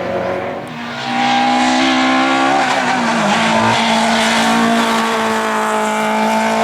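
Race car engine revving hard under load, its sound swelling about a second in. The pitch dips around the middle, then holds and slowly climbs again at high revs.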